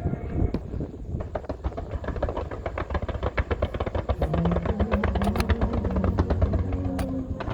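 Fireworks going off in quick succession: a dense stream of rapid crackling bangs over a deep, continuous booming. The bangs thicken and get louder about halfway through.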